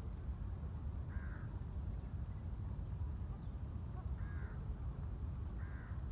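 A crow cawing three times, short harsh calls a second or more apart, over a steady low rumble.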